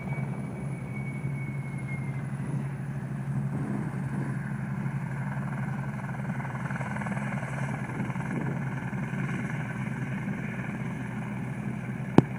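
Eurocopter AS350 B3 helicopter, its single turboshaft engine and rotor heard at a distance after take-off: a steady low drone, with a high turbine whine that dips slightly in pitch and fades out in the first two seconds. A single sharp click near the end is the loudest moment.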